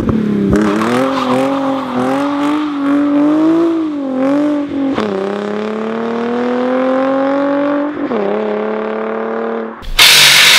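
Hyundai Genesis Coupe engine and exhaust accelerating hard through the gears, the pitch climbing and then dropping at each of about three gear changes. Near the end a loud steady hissing noise cuts in suddenly.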